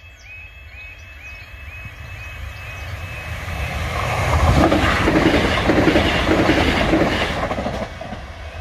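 Southern Class 377 electric train approaching and passing over a level crossing: a rush of wheels on rail that builds, is loudest about halfway through with a rhythmic clatter, then drops away near the end. Under it the crossing's warning alarm repeats a short rising tone about two and a half times a second.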